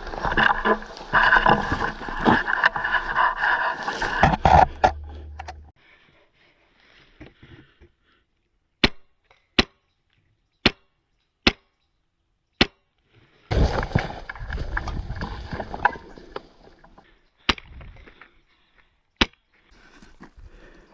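Airsoft gun fired in single shots: five sharp cracks about a second apart, then two more, between two stretches of noisy commotion.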